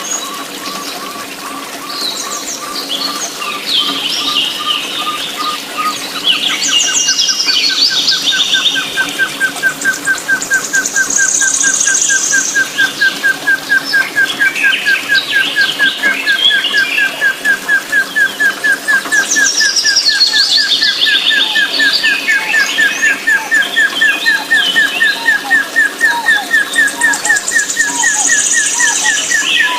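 Birds chirping and calling. A fast train of short repeated notes starts about six seconds in and slowly rises in pitch.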